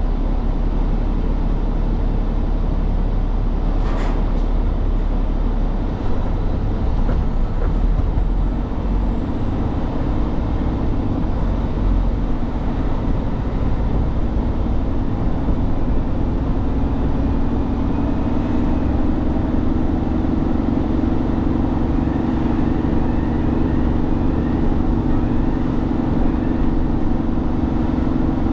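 A truck driving: steady engine and road rumble. A single sharp click comes about four seconds in. From about a third of the way through, the engine note climbs gradually and then holds steady.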